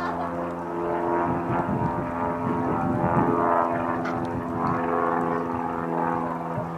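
Small propeller airplane's engine running steadily, a constant droning hum with no change in pitch.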